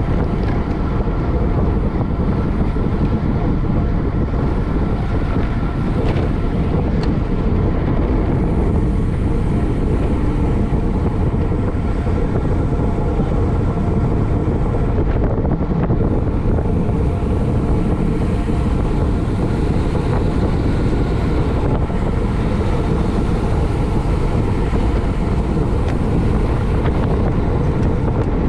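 Steady wind rushing over the microphone of a camera moving at race speed, mixed with a continuous hum of bicycle tyres and drivetrain on the road.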